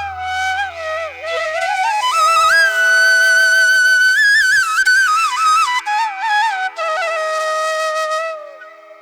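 Solo flute playing a slow melody of long held notes with gliding bends and ornaments over a steady drone, as relaxation background music. It fades near the end.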